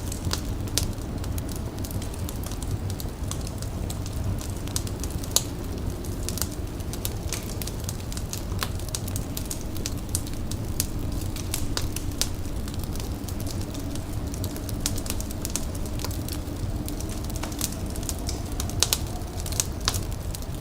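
An indoor fire crackling, with frequent irregular sharp pops over a steady low rumble.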